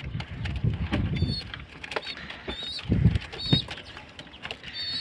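Short high bird chirps repeating every second or so, over low rumbling bumps and scattered clicks close to the microphone.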